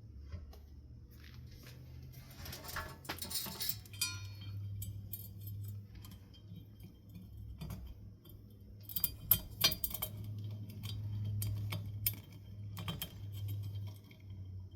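Small metal parts clinking and clicking as they are handled during work on a ceiling fan, with a few sharp clicks about nine to ten seconds in, over a low steady hum.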